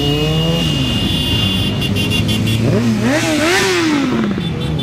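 Motorcycle engine running, its pitch rising slightly at the start, then revved in a quick series of blips from about three seconds in before it drops back.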